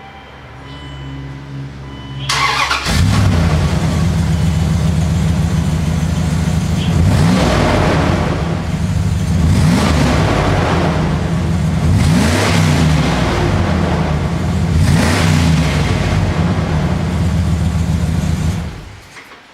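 Dodge Durango engine heard close at the exhaust: the starter cranks briefly about two seconds in and the engine catches into a steady idle. It is revved four times, each a short rise and fall in pitch, then switched off shortly before the end.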